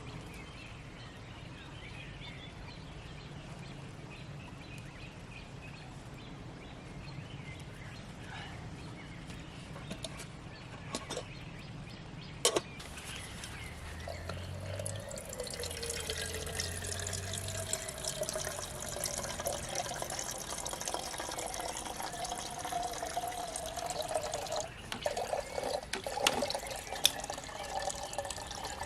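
Water sounds, trickling and bubbling, getting fuller about halfway through, with a single sharp knock about twelve seconds in.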